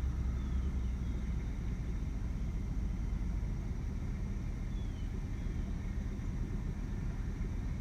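Steady low outdoor rumble, with a few faint, short, falling chirps from a small bird.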